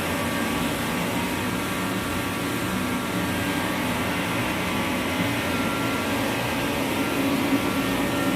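Reddy Heater Pro 150 kerosene forced-air heater running lit: a steady rush of fan and burner with faint steady hum tones, the heater firing normally.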